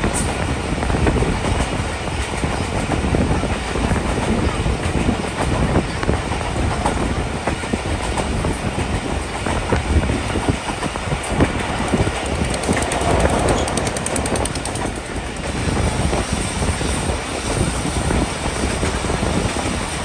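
Passenger train hauled by a GMU-15 diesel-electric locomotive, running steadily. A continuous rumble is dotted with the clatter of wheels over rail joints.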